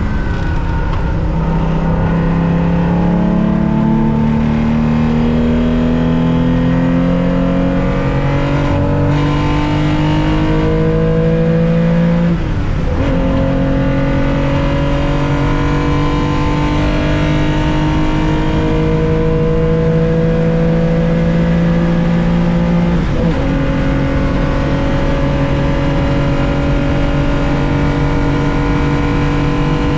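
A 1965 Porsche 911 2.0's air-cooled flat-six engine, heard from the cockpit, pulls at full throttle with its pitch rising steadily through long gears. It upshifts about twelve seconds in and again about twenty-three seconds in, each time dropping in pitch and then climbing again.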